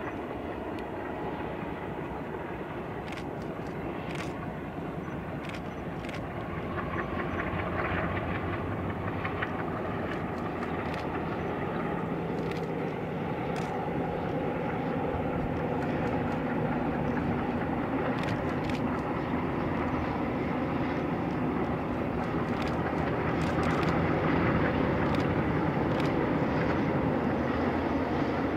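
Distant diesel-hauled freight train: the locomotives' engines drone and the wagons rumble on the rails, growing steadily louder as the train draws nearer.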